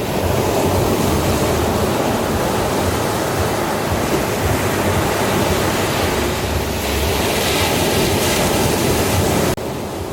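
Ocean surf: a steady rush of breaking waves that drops suddenly to a quieter level near the end.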